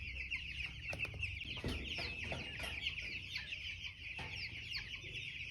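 A flock of young chicks, about two and a half weeks old, peeping continuously: many short, high, falling peeps overlapping in a dense chorus, with a couple of faint knocks.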